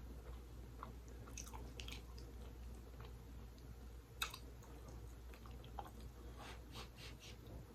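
Faint close-up chewing of creamy seafood pasta, with scattered small wet mouth clicks and one sharper click about four seconds in.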